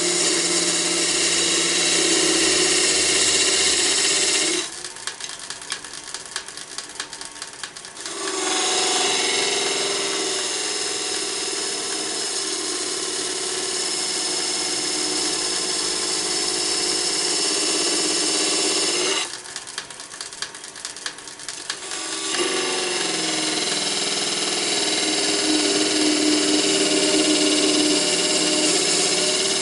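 Wood lathe running with a turning tool cutting into the spinning wooden box blank, a steady hissing cut. The cutting stops twice for a few seconds, leaving a quieter spell with scattered small clicks, then resumes.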